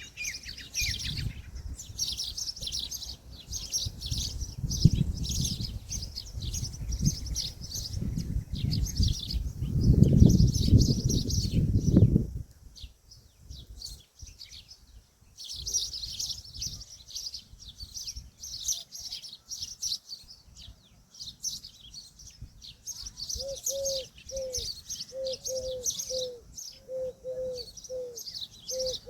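Many small birds chirping busily in high, quick notes. A low rumble runs underneath for the first twelve seconds and cuts off suddenly. In the last six seconds a bird gives a run of short, evenly repeated low calls, about two a second.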